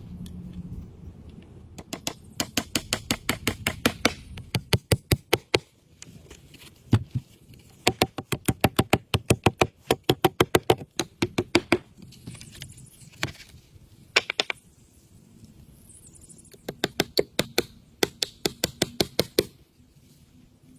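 Rapid runs of sharp knocks, about six a second. The runs last one to four seconds, with short pauses between them and a few single knocks.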